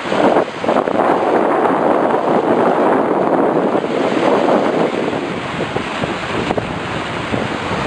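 Wind buffeting the microphone, a loud, rough steady rush with sea waves under it.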